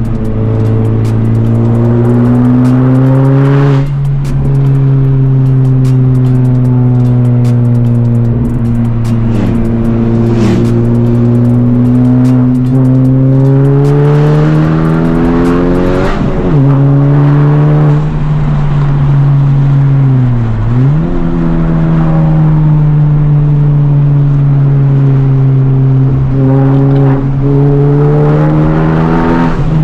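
Honda Civic Type R's turbocharged 2.0-litre four-cylinder, with a catless downpipe and resonator delete, pulling hard under load. Its pitch climbs steadily and then drops sharply at each upshift, about four times.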